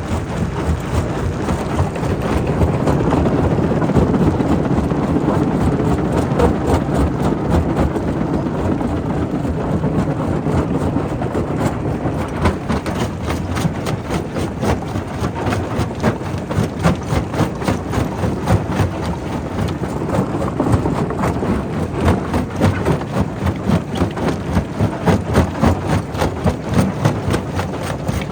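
Quarry primary rock crusher running under load: a steady low rumble of machinery with a constant run of knocks and cracks as stone is broken, the knocks growing sharper and more regular in the second half.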